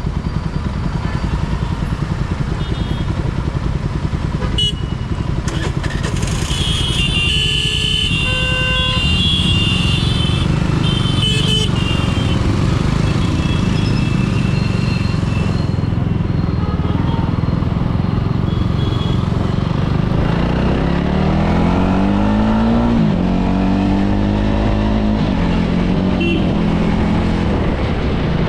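Motorcycle engine running while riding through street traffic. A vehicle horn sounds about a quarter of the way in. About two-thirds of the way in the engine revs up, its pitch rising and then holding steady.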